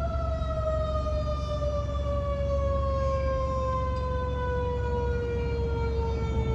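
Fire truck's mechanical siren winding down, its single tone falling slowly and steadily in pitch, over the low rumble of the truck's engine.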